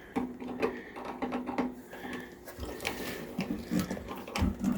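Water heater drain valve being turned open, giving irregular small clicks and creaks of the valve and hose fitting.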